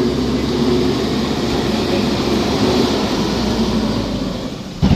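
A heavy machine's engine running steadily, easing off about four seconds in, then a single sharp knock right at the end.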